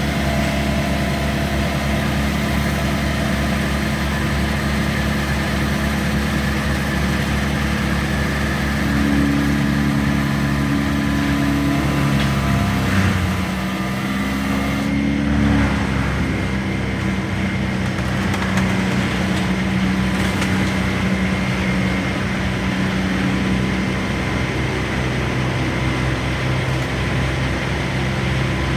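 A large engine running steadily at a low pitch, with a brief dip and change in engine speed about halfway through.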